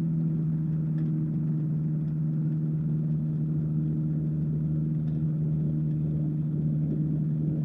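Light aircraft's engine idling steadily, warmed up before the takeoff roll.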